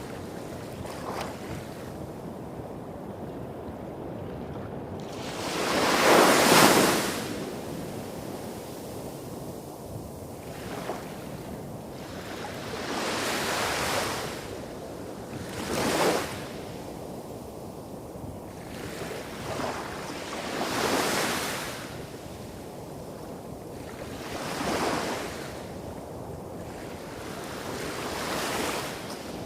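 Small sea waves breaking and washing on a beach every few seconds, the biggest about six seconds in, over a steady low rumble of surf hitting rocks farther along the coast.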